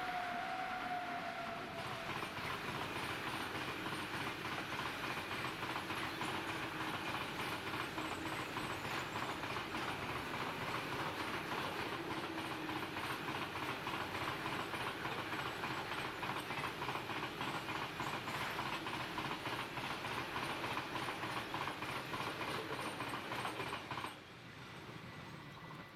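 Freight train passing close by, its wheels clicking steadily and rapidly over the rail joints, with a brief falling tone at the very start. The sound drops suddenly to a much lower level about two seconds before the end.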